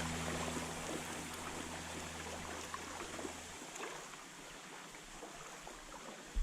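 Flowing creek water with small splashes and ticks. A low steady hum fades out and stops a little past halfway, and a single thump comes right at the end.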